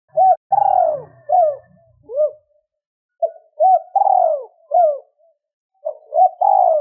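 Spotted dove cooing in three repeated phrases. Each phrase is a few short hooting coos with one longer coo that slides down in pitch.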